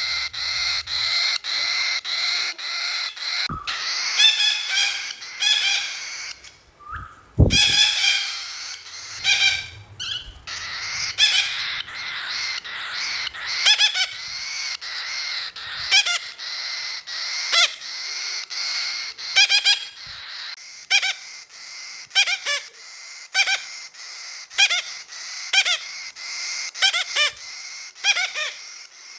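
Cockatiel calling over and over in short, pitched chirps, about one or two a second. A single sharp thump sounds about seven seconds in.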